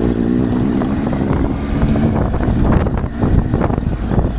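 Triumph Tiger 800's three-cylinder engine running at low speed, with wind noise on the microphone. From about two seconds in, a run of knocks and rattles.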